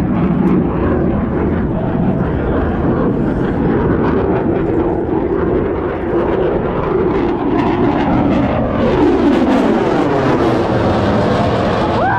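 F-35 fighter jet flying past, its engine a loud, steady rush, with tones that glide down in pitch over the last few seconds as it passes.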